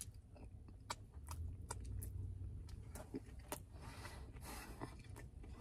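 Faint chewing and mouth clicks from a person eating a soft piece of rotisserie chicken with the mouth closed, scattered irregularly, over a low steady rumble.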